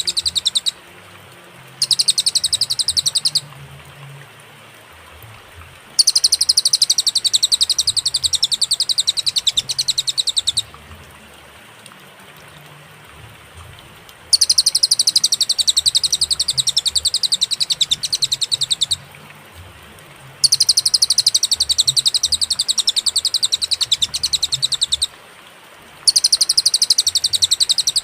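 Cililin bird singing: long bursts of very rapid, high-pitched trilled notes, each burst lasting a few seconds, separated by pauses of one to several seconds.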